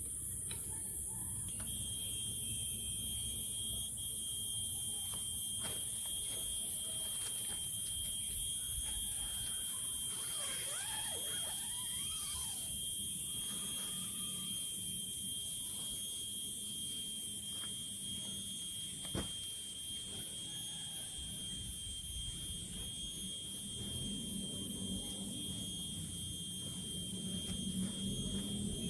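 Steady, high-pitched insect chorus that gets louder about two seconds in, with a few scattered clicks and a low rumble beneath.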